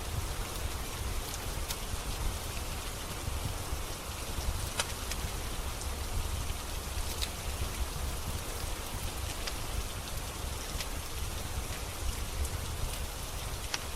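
Steady rain falling, with occasional sharp crackles and pops from a wood fire scattered through it, over a low rumble.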